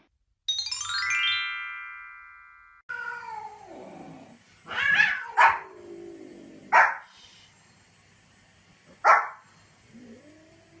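A short musical transition flourish, a run of falling chime-like notes that fades out. Then a dog gives long whining calls that slide down in pitch, mixed with four short, sharp barks.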